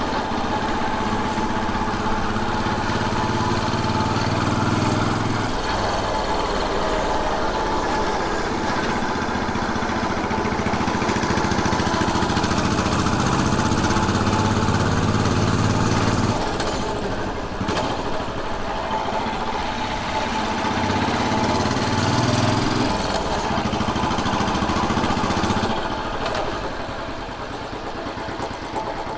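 Royal Enfield Bullet 500's single-cylinder engine under way, its revs rising and dropping back several times, with wind and road noise. It eases off and quietens near the end.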